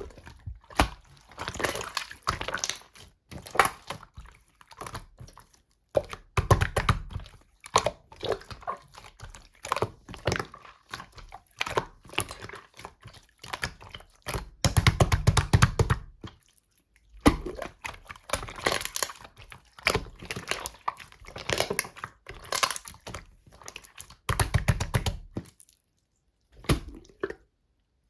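Slime being squished and pressed by hand, making many quick clicks and pops, with a few longer, louder clusters of them.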